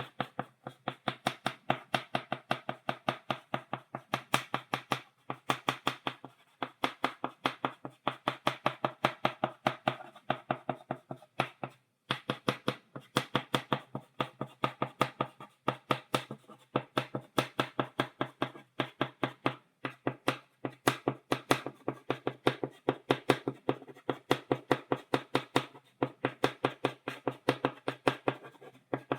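Chalk tapping on a blackboard, stippling dots in quick, steady runs of several sharp taps a second, with brief pauses every few seconds.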